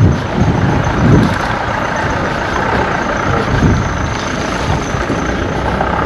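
Steady street traffic noise: vehicle engines and tyres passing close by, with a low rumble.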